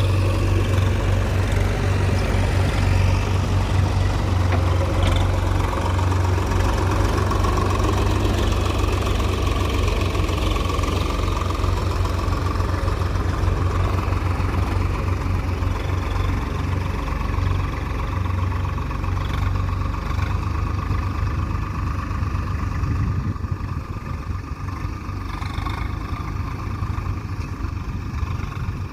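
Heavy diesel engine of earthmoving machinery running steadily, with a deep engine note that eases off somewhat in the last few seconds.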